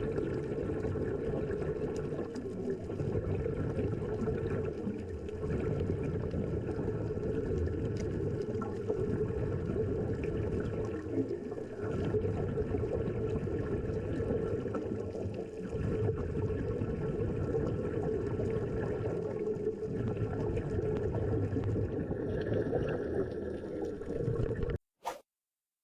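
Muffled underwater noise picked up by a submerged camera: a steady watery rush with a constant low hum running under it. It cuts off abruptly near the end.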